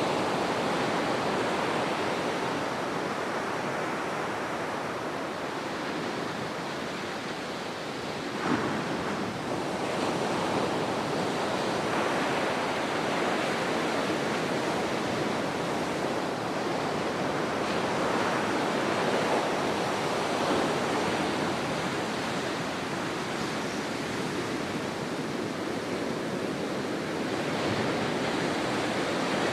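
Ocean surf washing on the shore in a steady, rushing wash of waves, with a short sharp knock about eight seconds in.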